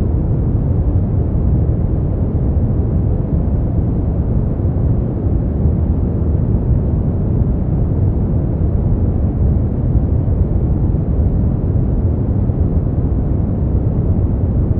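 Steady brown noise: an even, deep rumbling hiss with most of its energy in the low end, and no changes.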